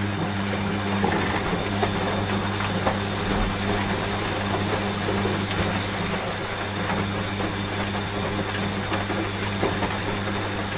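Washing machine running with a steady low motor hum, over the constant hiss of rain.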